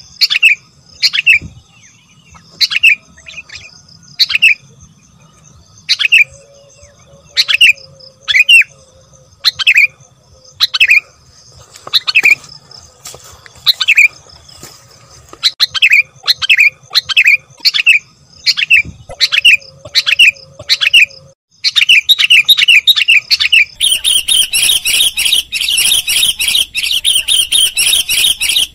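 Sooty-headed bulbul (kutilang) calling: short pitched call notes repeated about once a second. After a brief break about three-quarters of the way through, the calls come quickly and run together into continuous chatter.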